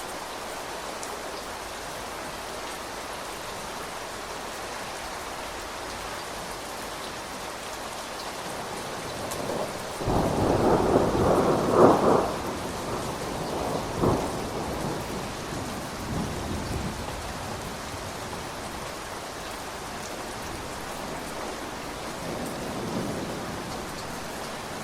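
Steady rain falling, with a roll of thunder about ten seconds in that swells to a peak, gives one more short crack a couple of seconds later, and dies away into the rain.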